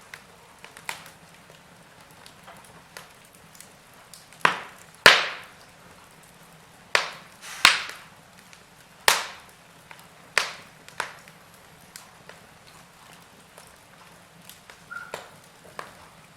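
Log fire crackling in a fireplace: scattered sharp pops and snaps of burning wood over a low steady hiss, with a run of loud cracks in the middle.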